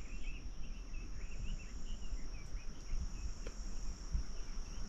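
Steady high-pitched trill of insects, with small birds chirping in short notes over it.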